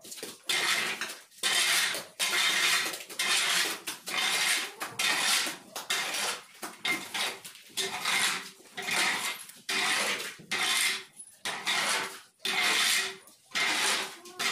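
A metal tool scraping manure out from under cows along a barn floor: steady, repeated scraping strokes, roughly one a second, with a faint metallic ring.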